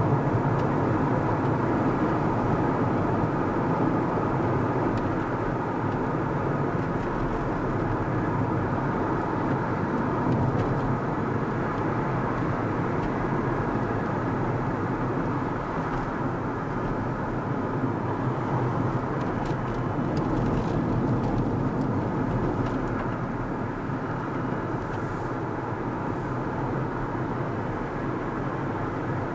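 Car driving along a road: a steady rush of tyre and engine noise.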